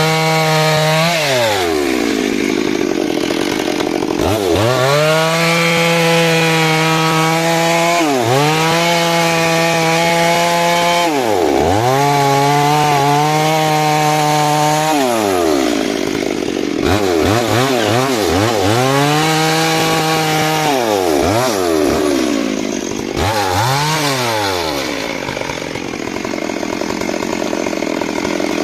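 Stihl MS 382 two-stroke chainsaw cutting into a large rain tree log, held at high revs for a few seconds at a time and dropping back and revving up again about seven times as it rips through the wood.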